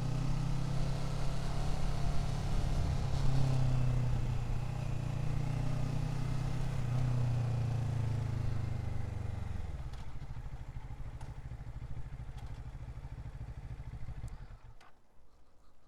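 Motorcycle engine running steadily while riding, then dropping away sharply about ten seconds in, with a quieter sound fading out near the end.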